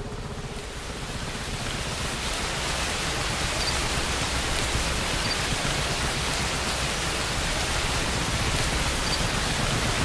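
Steady heavy rain, a dense even hiss that swells over the first couple of seconds and then holds.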